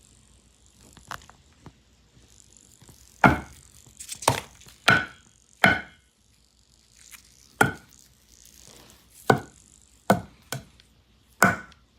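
Crispy fried chicken making sharp crackling crunches, about nine of them at irregular intervals.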